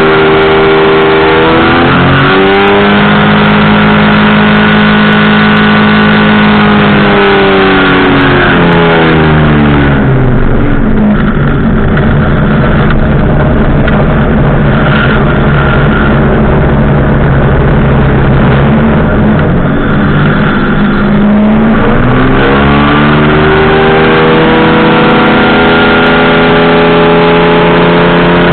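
Powered parachute's engine and propeller, loud and close, throttled down over several seconds to a low, rough running speed. It holds there for about twelve seconds, then is throttled back up.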